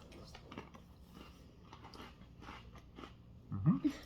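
Someone chewing crunchy Oreo sandwich cookies, a run of faint irregular crunches. A short voiced sound rises in pitch near the end.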